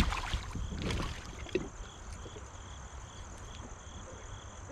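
Insects chirping in an even pulse about three times a second over a steady high hum, with a few light knocks in the first second or two.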